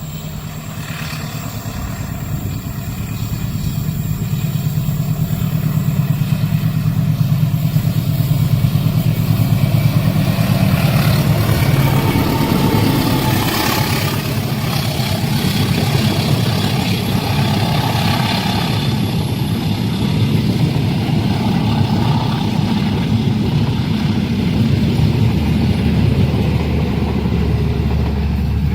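Passing train's diesel locomotive: a low, continuous rumble that builds over the first several seconds, then holds steady and loud.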